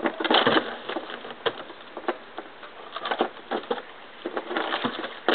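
Irregular knocks and scrapes, several a second, with a loud cluster about half a second in and another near the end.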